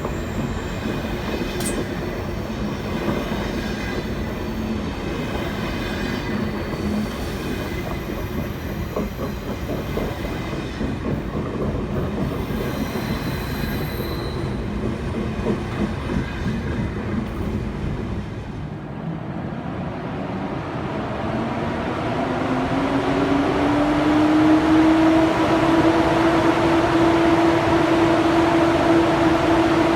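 Train running on the rails with a steady rumble. About two thirds of the way in, a rising whine comes in and settles into a steady hum, growing louder toward the end.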